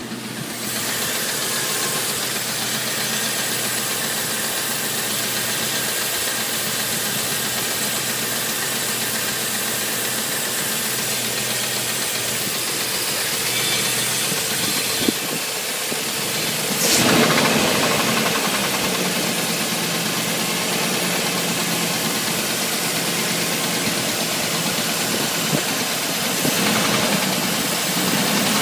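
1987 Chevrolet 350 small-block V8 with throttle-body injection running with an engine knock, which the owner says comes under load. About two-thirds of the way in it revs up briefly and falls back, and it picks up again near the end.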